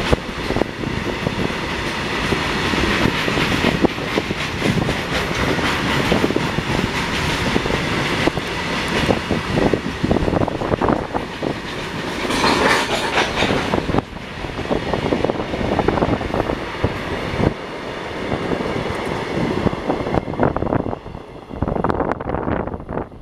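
Loaded freight train passing at speed, its wagon wheels clattering over the rail joints in a dense rapid rhythm, with a brief higher-pitched screech about halfway through.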